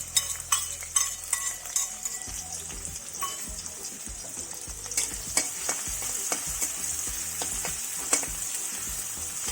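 Chopped onions sizzling in hot oil in a kadai, with a spatula stirring and clicking against the pan now and then, most often in the first couple of seconds.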